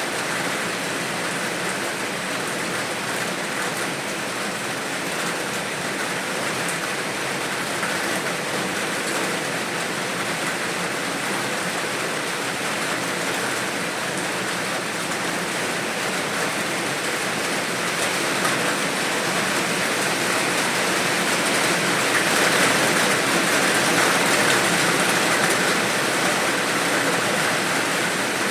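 Steady rain falling, an even, dense hiss of drops with no breaks, growing a little louder about three-quarters of the way through.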